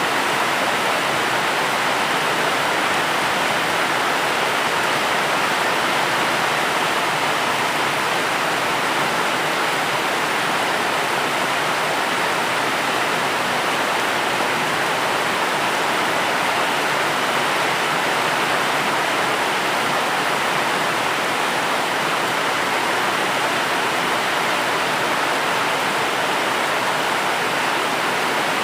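Steady, even hiss of heavy rain, with no separate drops, thunder or other events standing out.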